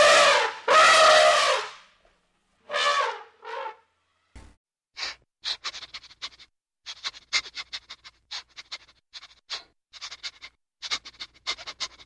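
An elephant trumpeting: one loud call about two seconds long, then a shorter call about a second later. After that come rabbits chewing leaves, a run of quick, crisp, irregular crunches.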